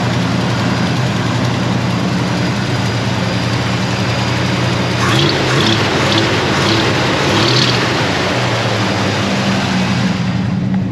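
The 400 cubic-inch V8 of a 1980 Ford F-150 running steadily at idle after a cold start. The engine has an exhaust leak.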